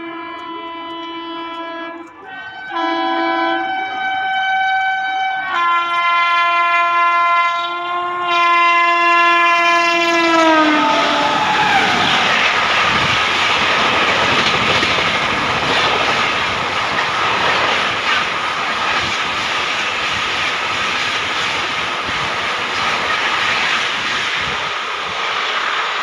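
Indian Railways WAP7 electric locomotive sounding its multi-tone horn in three blasts as it approaches at speed, the last one long and falling in pitch as the locomotive passes. Then its coaches rush past at high speed with a steady roar of wheels on rail.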